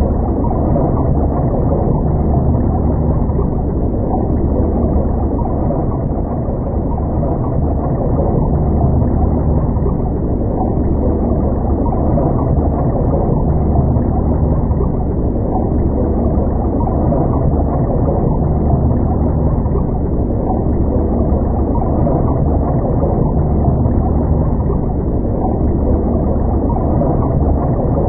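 Boat engine running steadily: a muffled, low, unchanging rumble with no high sounds.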